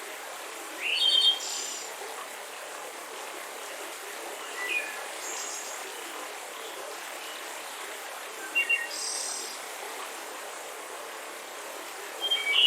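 Steady rush of a mountain river with small birds chirping over it: four short bursts of high chirps and trills, a few seconds apart.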